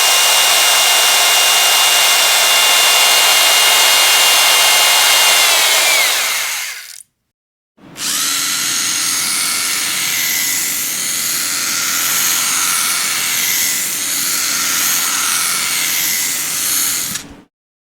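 Electric power drill running at steady full speed, then spinning down with a falling whine and stopping about seven seconds in. After a pause of under a second it starts again, runs with a slightly wavering pitch, and cuts off about a second before the end.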